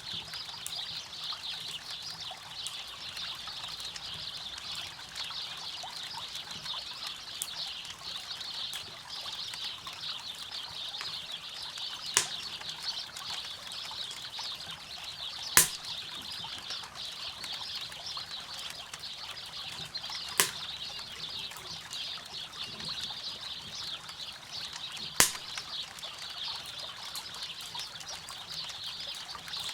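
Steady rush of river water, with a campfire crackling over it and four sharp, loud pops from the fire, spaced a few seconds apart.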